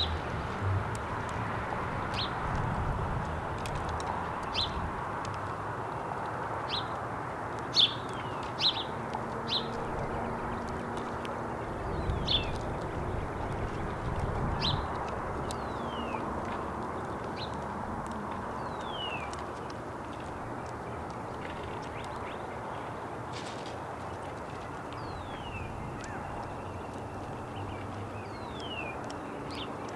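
Small birds chirping at a feeding spot: frequent short, high chirps and several quick falling notes, over a steady outdoor background hiss.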